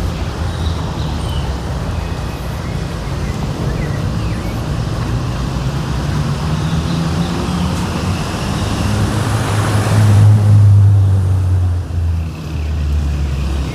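City street traffic: engines running and passing with a steady low hum, one vehicle growing loudest about ten seconds in as it goes by close, then fading.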